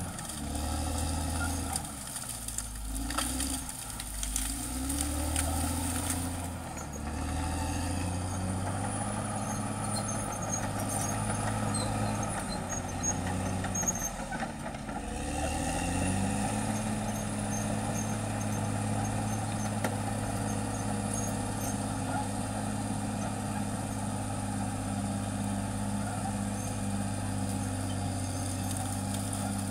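Caterpillar D6R XL bulldozer's diesel engine working, its revs rising and falling through the first half, then holding steady from about halfway on.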